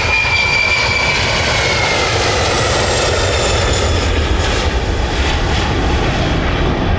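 Virgin Atlantic Boeing 747's four jet engines running loudly as it passes, a high whine over a steady roar. The whine drops in pitch between about one and two and a half seconds in.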